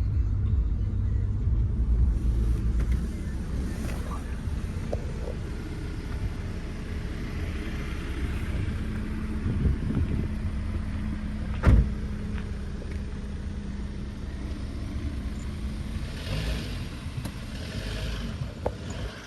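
Jeep Wrangler's engine running with a steady low rumble that gradually eases, and one sharp knock about two thirds of the way through.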